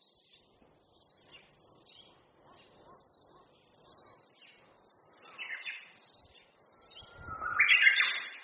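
Wild songbirds chirping faintly with short, high calls. A louder call comes a little after five seconds, and a louder, longer call near the end is the loudest sound.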